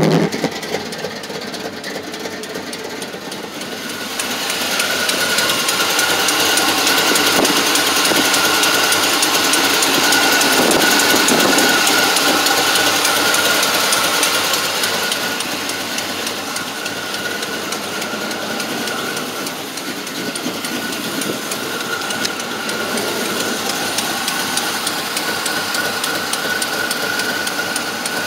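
Carbureted engine idling with a fast, steady tick-tick-tick, louder for a stretch in the middle. The tick is an exhaust leak from three loose exhaust manifold header bolts.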